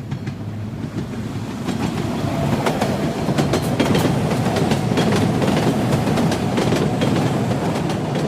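Train sound: railway carriage wheels clattering over rail joints, with sharp clicks, growing louder over the first few seconds and then running steadily.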